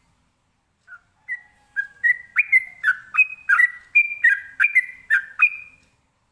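Yellow-vented bulbul (trucukan) singing its rapid 'ropelan' song: a fast string of short whistled notes, about three a second, starting about a second in, growing louder and stopping near the end.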